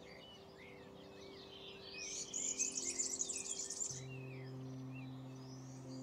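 Small birds singing and chirping in short high curved notes, with a louder rapid high trill about two seconds in that lasts about two seconds.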